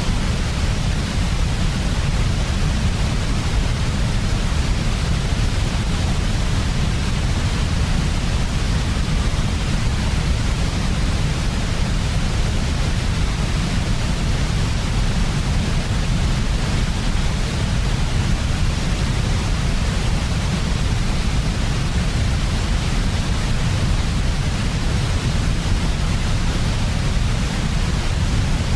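Steady, unchanging synthetic white noise for sleep, played continuously. It has a strong low rumble under an even hiss, with no changes or events.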